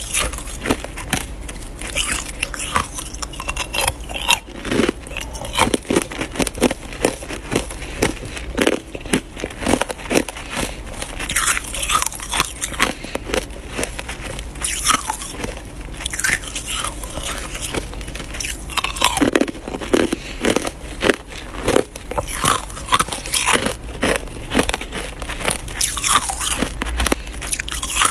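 Ice being bitten and chewed, a dense run of sharp crunches that goes on without a break, with a few louder clusters of bites.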